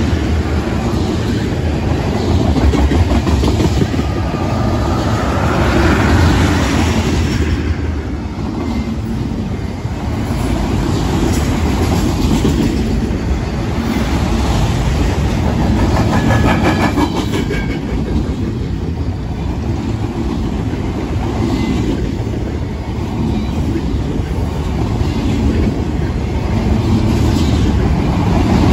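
Freight train cars (tank cars, autoracks and a covered hopper) rolling past close by, their steel wheels running on the rails in a steady loud rumble.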